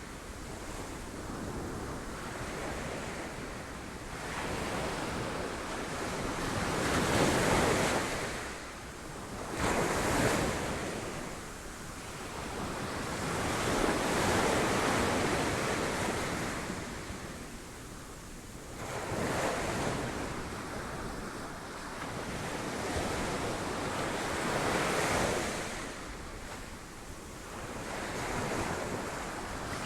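Sea waves breaking on rocks, surging and falling back in a slow rise and fall every few seconds, with wind noise on the microphone.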